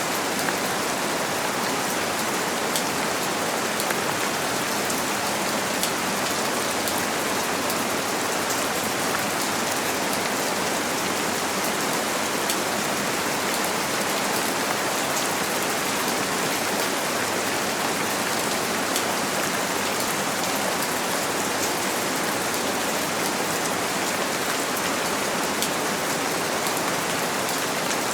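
Steady rain pattering on a window, an even hiss with faint scattered drop ticks.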